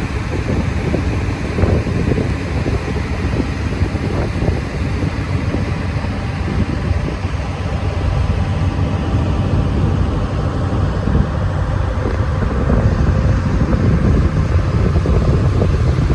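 Steady low drone of a vehicle ferry's engine under way, with wind noise on the microphone.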